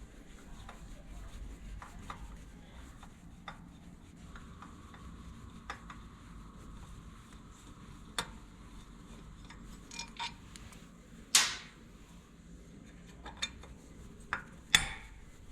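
Scattered light metal clicks and clinks of a hex key working the 5 mm Allen bolts on a motorcycle's exhaust heat cover, with a few sharper clanks in the second half.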